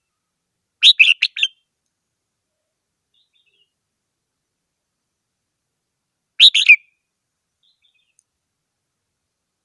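Red-whiskered bulbul singing: two short song phrases of a few quick, clear notes each, one about a second in and another about six seconds in, with silence between.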